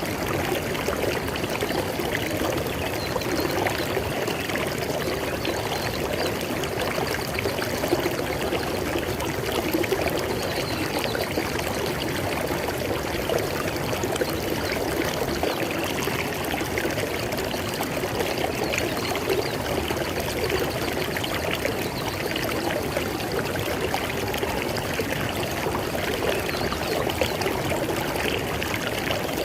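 River water flowing steadily over rocks, a continuous splashing and gurgling rush with no change in level.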